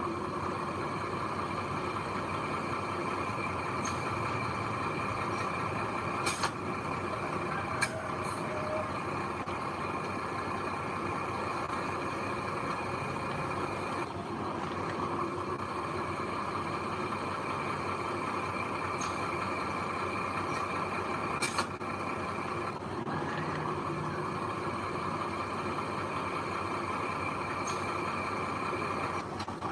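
Heavy diesel earthmoving machinery running steadily, with a constant engine drone, and a few short sharp clicks about six, eight and twenty-one seconds in.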